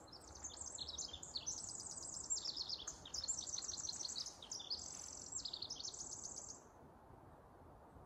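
A small songbird singing one long, high song made of rapid trills that keep shifting up and down in pitch, stopping about six and a half seconds in.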